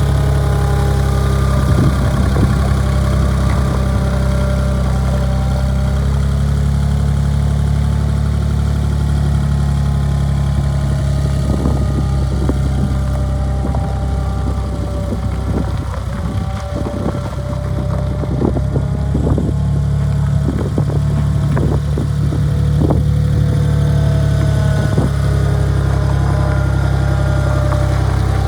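A 1993 Gehl 3410 skid steer loader's engine running steadily at an even speed, with a series of sharp knocks and clanks through the middle stretch.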